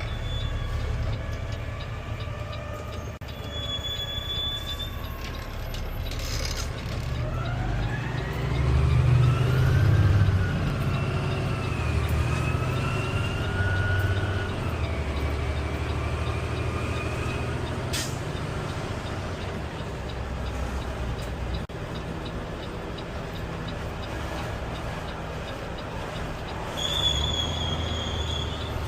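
Peterbilt 520 CNG garbage truck running, heard from the cab, with a steady low rumble. A whine climbs in pitch as the truck picks up speed about a quarter of the way in, then rises and falls a few more times before settling.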